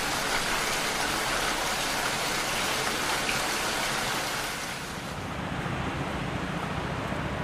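Steady rain falling, an even hiss with no distinct drops or voices, easing slightly about five seconds in.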